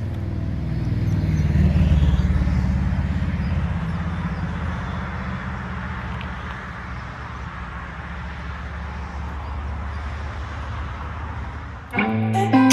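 Honda Navi's small air-cooled single-cylinder engine idling as it warms up, swelling briefly about two seconds in and then settling to a steady idle. Guitar music cuts in near the end.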